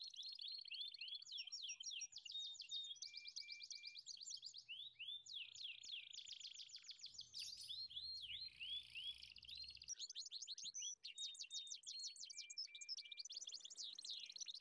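Birdsong: a continuous stream of rapid high chirps and trills with repeated short downward sweeps.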